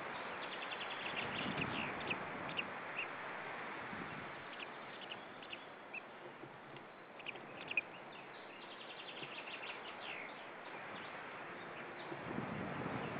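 Short, high bird chirps in quick runs, some single and some in clusters, over a steady background hiss.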